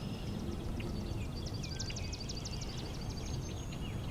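Kinglet singing: a quick run of high, thin, repeated notes beginning about a second in and lasting about two seconds, over faint calls of other birds and a low steady background.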